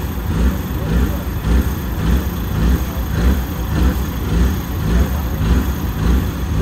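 Mitsubishi Lancer Evolution rally car's turbocharged four-cylinder engine idling on the start line, its revs lifting and dropping back in an even rhythm a little faster than once a second.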